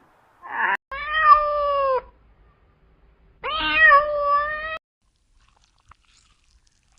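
An animal calling: a short cry, then two long, clearly pitched calls of about a second each, the first falling in pitch at its end and the second rising at its start.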